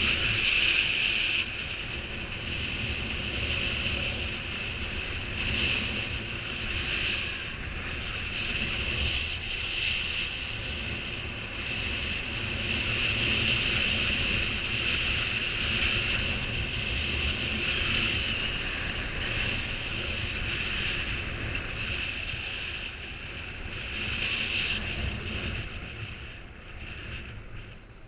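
Wind rushing over the microphone during a flight under a Skyman Blizzard 16 m mini paraglider wing, in wind of about 30 km/h. A steady rush that swells and eases, dying down near the end.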